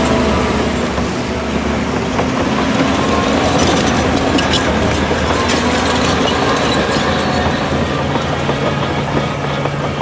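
Diesel earthmoving machinery running steadily, with scattered metallic clanks and rattles.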